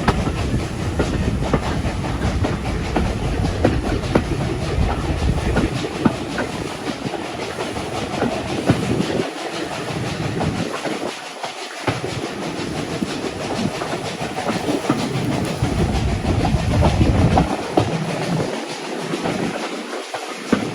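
Heritage railway carriage rolling along the track: a steady rumble with the clickety-clack of wheels over rail joints, the deep rumble easing off twice along the way.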